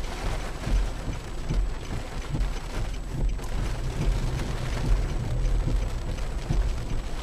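A car driving, heard from inside the cabin through a dash camera's microphone: a steady low rumble with an even hiss of road and engine noise.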